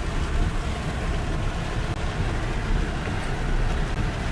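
Steady road and engine rumble inside a moving vehicle.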